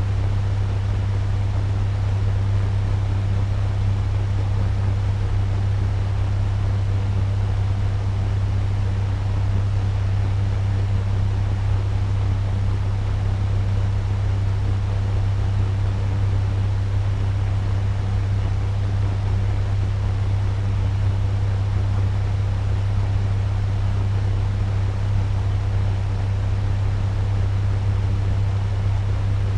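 Turbo fan running steadily at medium speed: an even rush of air over a strong, steady low hum, with no change throughout.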